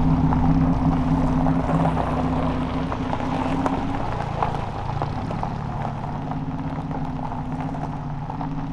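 A car engine running steadily, its note dropping about four seconds in and then holding.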